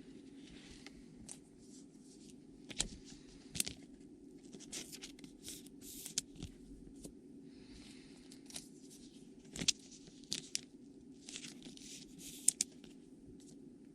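Trading card packs being torn open and the cards handled: a run of irregular tearing and crinkling sounds with sharp clicks, over a steady low hum.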